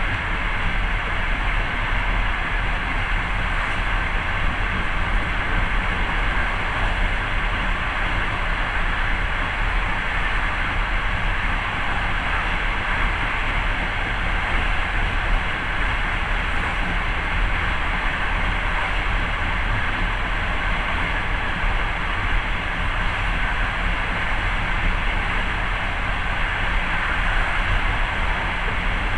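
Long-distance passenger train running steadily, heard from inside the carriage: a constant rumble and rail noise with no breaks.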